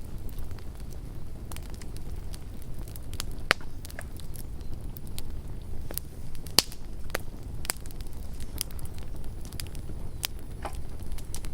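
Campfire burning with a steady low rumble and irregular crackles, two sharper pops about three and a half and six and a half seconds in.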